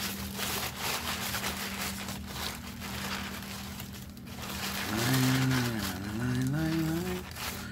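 Close-up chewing, with crunching and crackling clicks from the mouth for about the first four seconds. Then a man hums a drawn-out "mmm" that slides up and down in pitch for about two seconds.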